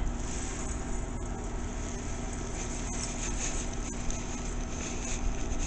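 Steady outdoor background noise: a low rumble and a high hiss, with a faint steady hum.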